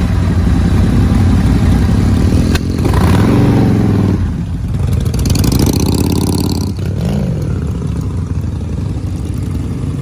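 Motorcycle engine running loudly and revving, its pitch rising and falling a few times, with a sharp click a little before three seconds in.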